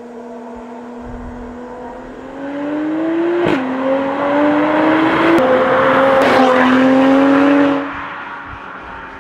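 Mercedes-AMG CLS53 turbocharged inline-six through an Armytrix aftermarket exhaust, accelerating hard. The engine note climbs and drops at an upshift about three and a half seconds in, climbs again louder, then backs off near the end.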